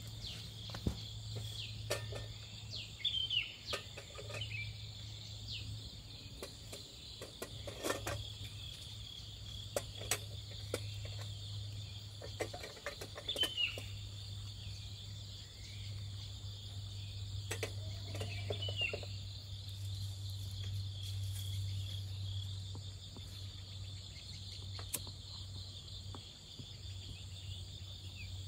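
Steady high insect chirring, with a few short bird chirps and scattered clicks and knocks.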